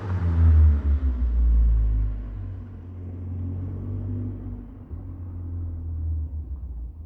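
Car engine through an aftermarket 63 mm exhaust with downpipe, resonator and muffler, its revs falling away into a low, steady exhaust rumble that slowly fades.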